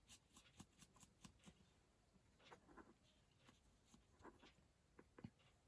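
Near silence with faint, scattered small taps and rustles of a paper card being handled.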